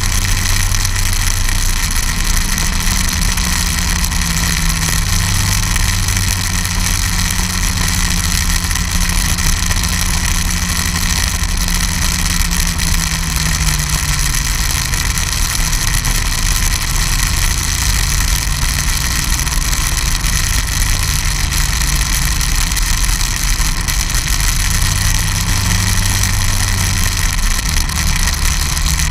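Snowmobile engine running without a break, its pitch dropping about halfway through and climbing again near the end as the speed changes.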